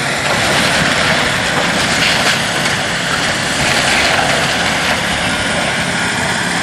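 Diesel engine of heavy demolition machinery running steadily.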